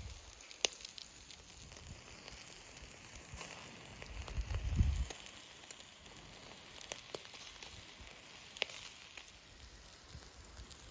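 Campfire crackling with a few sharp pops, over a steady sizzling hiss from spare ribs cooking on it. A low rumble comes about four to five seconds in.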